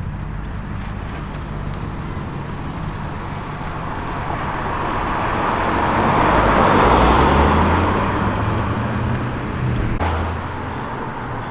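A car's engine driving slowly past at low revs, a low steady engine note with tyre and road noise. It grows louder to a peak about two-thirds of the way through, then fades as the car moves off.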